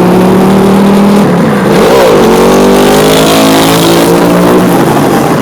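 2015 Ducati Scrambler's 803 cc air-cooled L-twin running through a Shift Tech titanium aftermarket exhaust. The pitch dips and jumps briefly about a second and a half in, then climbs steadily for about two seconds as the engine revs up, and drops back near the end.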